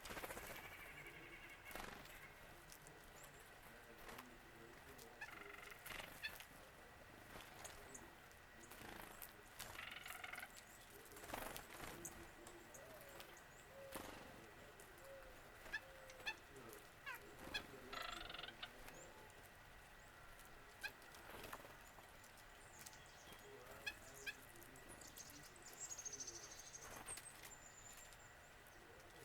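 Faint bird calls, short and irregular, some with several pitch lines between them and a few thin high chirps near the end, mixed with scattered light clicks.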